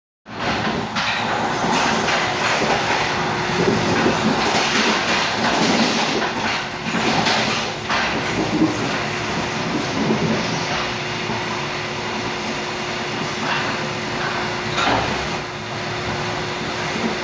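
Running noise inside a Mugunghwa-ho passenger coach at speed: a steady rumble of wheels on rail with scattered short knocks, and a steady low hum that comes in about halfway.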